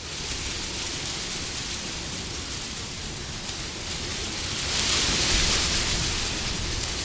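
Wind blowing steadily as a rushing hiss, with a gust swelling louder about halfway through and easing off near the end.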